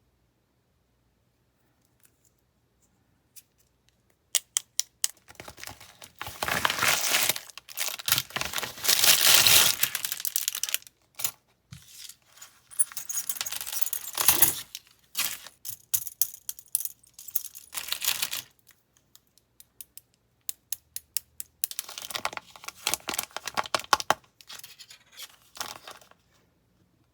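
Plastic packaging being torn open and crinkled by hand, in irregular bursts with small clicks and taps in between.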